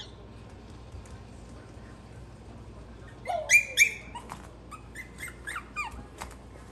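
Maltese puppies crying in high-pitched yelps and squeaky whimpers: a loud pair about three seconds in, then several shorter cries, some falling in pitch, mixed with a few sharp clicks.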